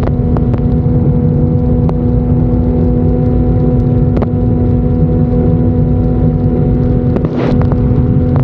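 Turbocharged Ford 4.0-litre inline-six in a sterndrive race boat, running at steady revs with a loud, even drone of constant pitch, broken by a few brief sharp taps.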